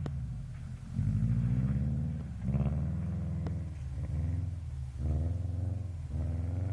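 Subaru Impreza STI's turbocharged flat-four boxer engine revving in repeated surges, about four times, the revs climbing and then falling away as the car is driven hard on snow.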